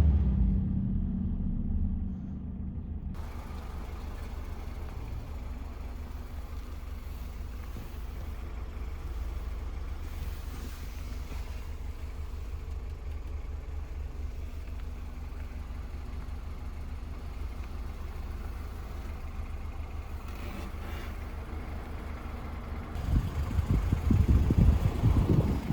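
Toyota Celica SS-II's 2ZZ-GE 1.8-litre inline-four: a rev dies away in the first two seconds, then the engine idles with a steady low rumble. Near the end come several irregular louder low surges.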